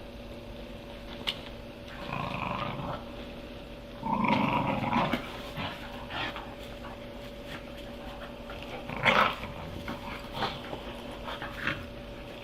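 Dogs growling at each other while squabbling over a stick, in short bouts about two and four seconds in, with scattered clicks and scuffles and a sharper sound about nine seconds in.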